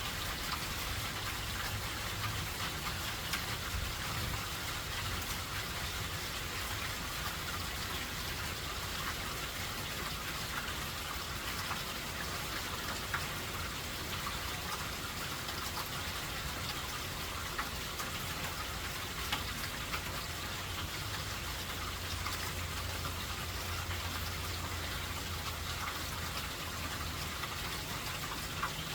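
Steady rain falling in an even hiss, with scattered individual drops ticking through it.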